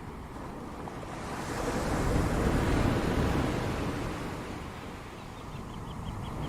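Pacific Ocean surf: a wave breaks and washes up the beach, swelling about a second in and falling away again after a couple of seconds. Near the end there is a faint run of about five short, high chirps.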